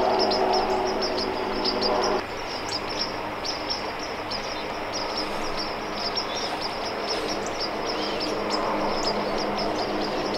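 Small birds chirping rapidly and continuously, high-pitched, over a faint outdoor background. A steady low humming tone underneath stops about two seconds in.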